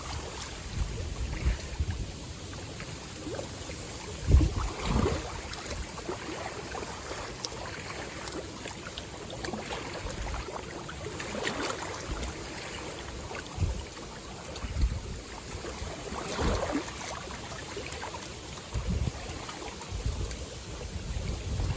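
Strong gusty wind buffeting the microphone in irregular low rumbles, over small waves lapping and splashing at the lake shore, whipped up by an approaching typhoon.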